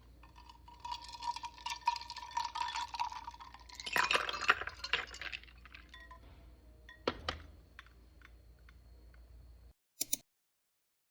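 Clinking and clattering of dishes and utensils, dense and busy for the first five seconds with a louder flurry about four seconds in, then a few scattered clicks. The sound cuts off suddenly near the end, followed by one short clatter.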